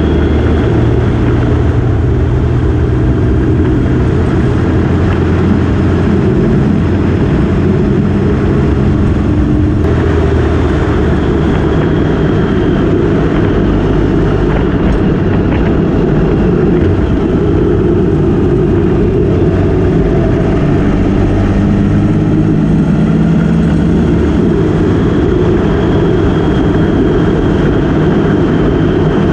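Motorcycle riding at road speed: the engine runs steadily under a heavy rush of wind and road noise, its note rising and falling a few times.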